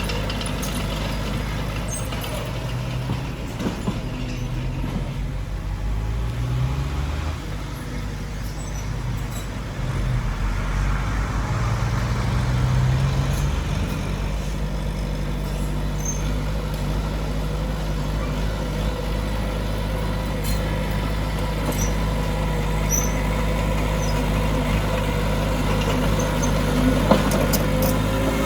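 Heavy diesel engine of earthmoving machinery running steadily, its pitch rising briefly twice as it is throttled up, with faint scattered clicks and squeaks of working metal.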